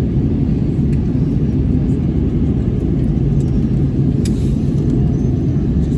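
Steady low rumble of cabin noise inside an Airbus A320 in flight on descent: engine and airflow noise heard from a passenger seat.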